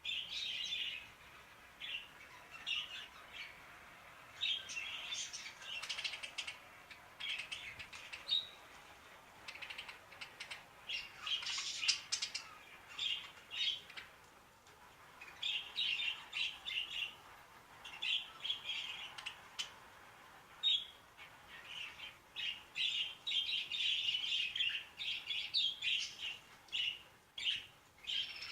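Budgerigars chirping in quick bursts of high chirps and chatter, with brief gaps, as the birds become active on hearing budgie calls.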